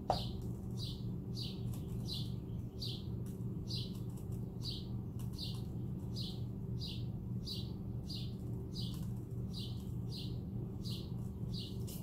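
A bird chirping over and over at an even pace, about three short high chirps every two seconds, over a steady low hum.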